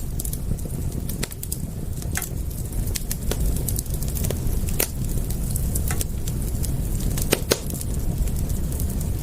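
Wood fire crackling: scattered sharp pops and snaps over a steady low rumble, with a couple of louder pops about seven seconds in.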